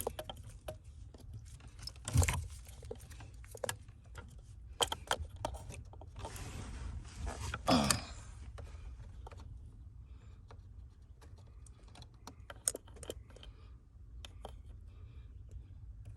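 Scattered clicks, taps and rustling as plastic steering-wheel trim pieces and wiring connectors are handled and fitted, with a louder knock about two seconds in and a longer scraping rustle around seven to eight seconds, over a low steady hum.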